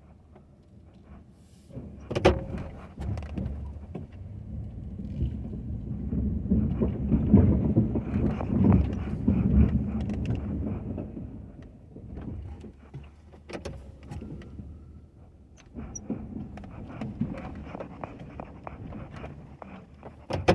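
Ford F-250 pickup with a snow plow moving, its rumble building to a loud stretch in the middle and easing off. Sharp knocks come about two seconds in, about two-thirds of the way through, and at the end.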